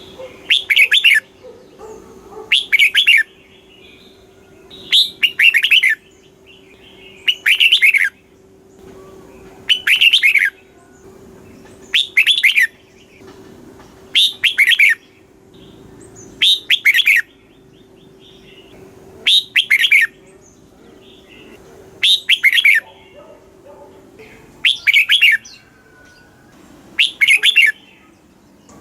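Red-whiskered bulbul singing: short, quick warbled phrases, repeated about every two seconds.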